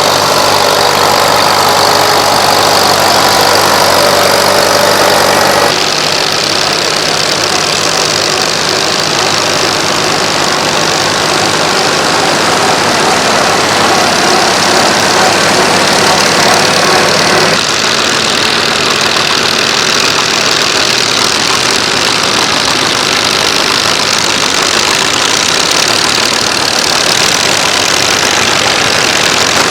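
Antique farm tractor engines running at low speed, a steady mechanical drone. The sound changes abruptly twice, about six and about eighteen seconds in.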